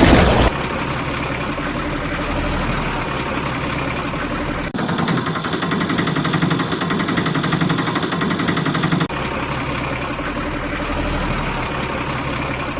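Vehicle engine running steadily, in spliced sections that change abruptly about half a second, four and a half and nine seconds in; the middle section is louder, with a fast, even pulsing.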